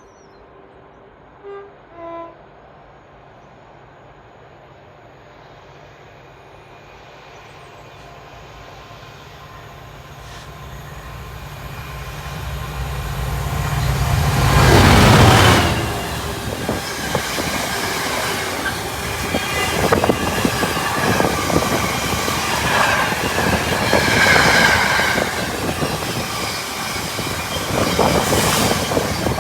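GBRf Class 66 diesel locomotive 66764, its two-stroke EMD V12 engine growing steadily louder as it approaches and passes about halfway through. Its wagons then roll by with continuous rail clatter and some wheel squeal. Two short high blips come near the start.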